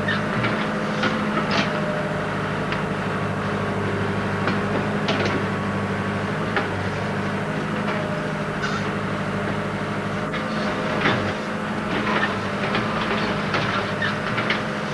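JCB digger's diesel engine running steadily, with scattered metallic clanks and knocks of digging work.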